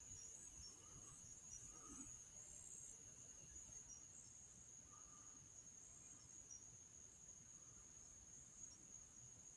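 Faint, steady high-pitched trilling of insects, a night chorus of crickets, over near silence.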